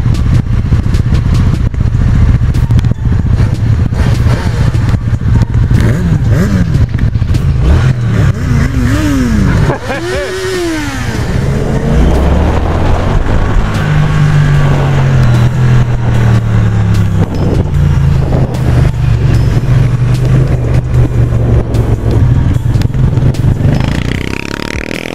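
Triumph Street Cup's 900 cc parallel-twin engine running on the move, with wind rushing over the helmet-mounted microphone. Between about six and eleven seconds in the engine pitch rises and falls through gear changes, then it settles into steady cruising.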